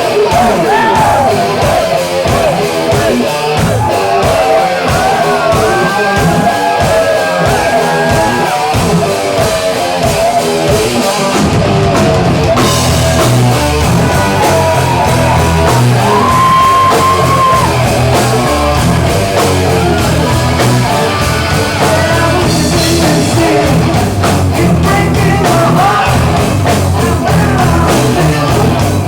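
Live hard rock band playing loud, with singing and electric guitar. A heavy low end of bass and drums fills in about twelve seconds in.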